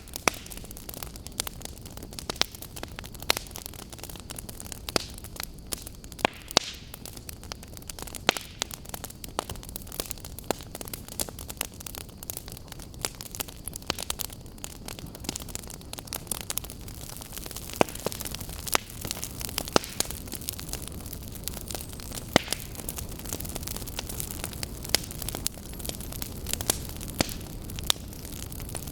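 Fire crackling in a fireplace: a steady low rush with frequent sharp pops and snaps at irregular intervals.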